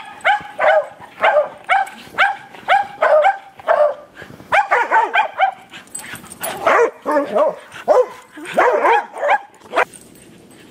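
Dog barking in play: short high barks about two a second at first, then coming in quicker bunches, stopping a little before the end.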